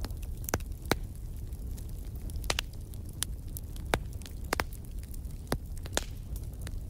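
Wood fire burning in a fireplace: a steady low rumble of the flames with irregular sharp crackles and pops, about a dozen, the loudest about a second in and near four seconds in.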